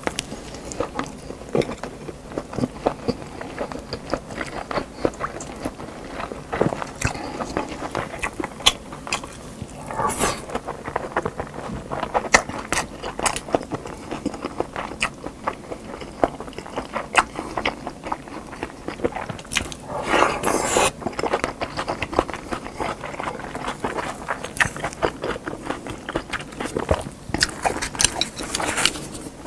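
Close-miked mukbang eating sounds: wet chewing and mouth noises of a person eating rice with spicy meat and kimchi stew, with many sharp little clicks and scrapes of chopsticks and food. Two longer noisy stretches come about ten and twenty seconds in.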